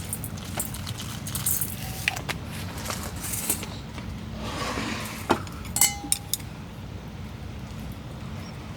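Scattered light clinks and knocks of small hard objects over a steady low rumble, the loudest a few sharp clicks about five to six seconds in, one with a brief ring.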